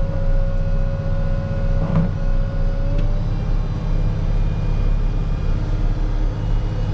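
Diesel engine of a rubber-tire wheel loader running steadily, with a steady whine over it and a brief short sound about two seconds in.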